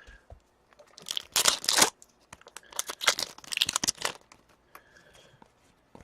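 Crinkling and tearing of a hockey trading-card pack wrapper being handled and opened, in two rustling bursts.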